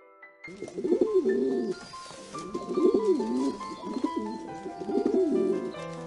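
Rock pigeon cooing: three low, rolling coos that waver up and down in pitch, the first starting about half a second in. Background music with held notes plays underneath.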